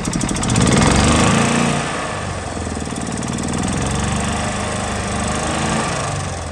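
Gas Club Car golf cart engine running, louder for about a second near the start and then settling to a steady run.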